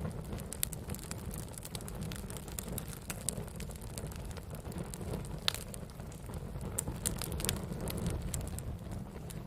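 Wood campfire burning: a steady low rumble of flames with frequent sharp crackles and pops, one louder pop about halfway through.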